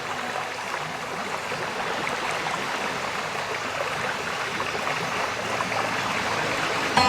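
Running water, a steady even rush of a stream or falling water.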